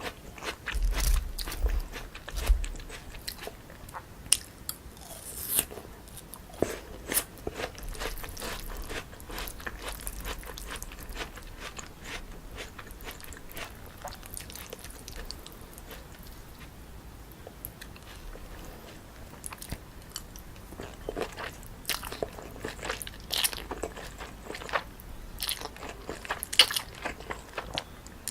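Close-up eating sounds: a person biting and chewing a jjolmyeon noodle dish with raw cucumber and apple, with many sharp crunches. The crunching is busier near the start and again in the last several seconds, and sparser in the middle.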